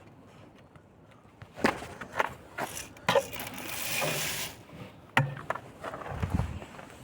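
A few scattered steps and sharp knocks, with about a second of rustling in the middle.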